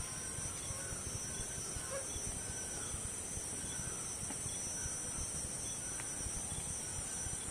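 Rainforest insect chorus at nightfall: a steady high-pitched drone with a short chirp repeating a little more than once a second over it, and a low rumble underneath.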